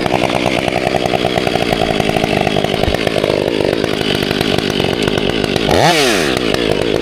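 Chainsaw running at high revs, its pitch dipping sharply and climbing back near the end.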